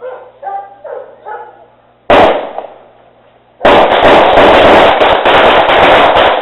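A car horn speaker playing a gunfire sound effect: one loud bang about two seconds in, then from about three and a half seconds a long stretch of rapid-fire shots, very loud and distorted. A few short calls come before the bang.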